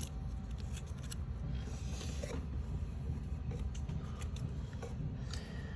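Handling of card and paper craft sheets: scattered small clicks and short rustles, over a steady low hum.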